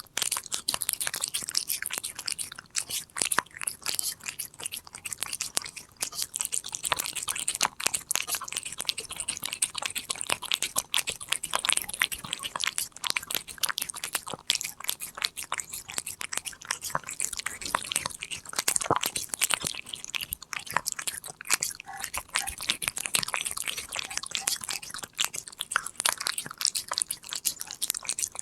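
A Korean shorthair cat chewing a treat: a quick, uneven run of sharp crunching bites, one after another without a break.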